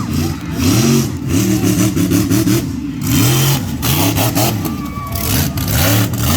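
Monster truck engine revving again and again, its pitch rising and falling about twice a second, loud and close.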